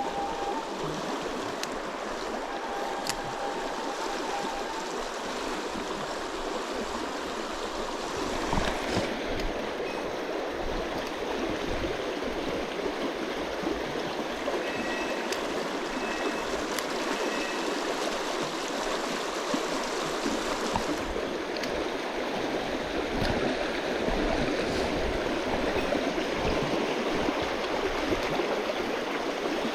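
Small mountain stream running: a steady wash of water noise.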